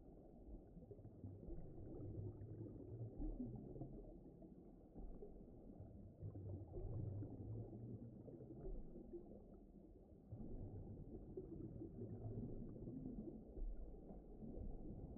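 Faint, muffled underwater-style ambience: a low rumbling wash with no high sounds, slowly swelling and ebbing, with a brief dip about two thirds of the way through.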